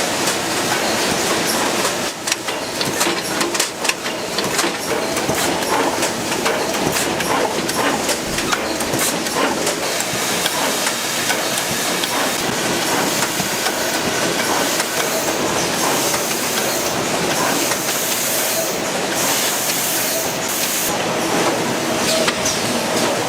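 Ice cream production-line machinery running, with a steady rattling clatter of quick clicks over a hiss.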